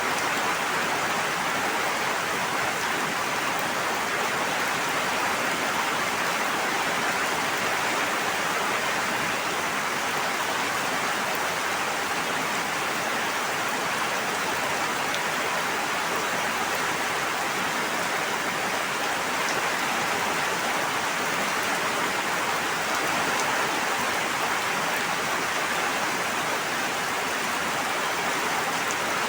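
Steady, unbroken rushing water noise, even throughout, with no separate drops or splashes standing out.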